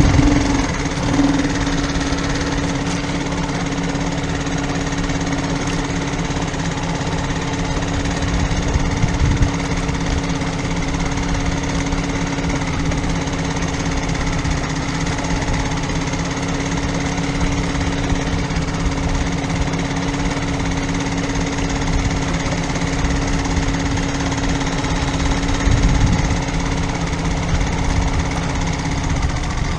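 Inboard diesel engine of a Dufour 3800 sailing yacht running steadily at constant speed, a steady hum over a low rumble.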